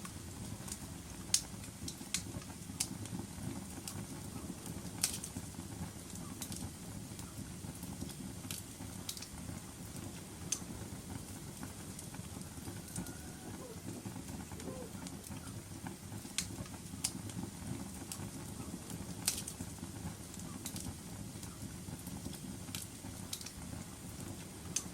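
Wood fire crackling in a fireplace: a steady low rumble of flames with sharp, irregular pops every second or so.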